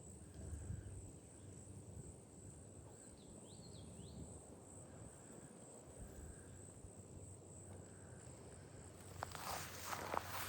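Faint outdoor swamp ambience with a few faint high chirps about three to four seconds in, then footsteps on the trail starting about a second before the end.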